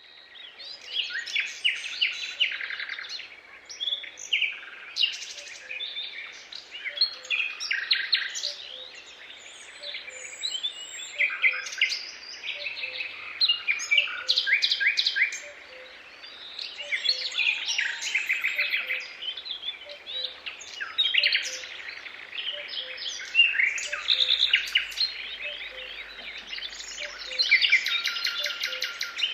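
Several birds singing at once: overlapping chirps and rapid trills, with a faint low note repeating regularly beneath them.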